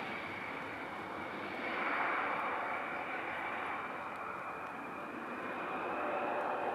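Airliner's engines running with a broad rush and a steady high whine, swelling about two seconds in and again near the end.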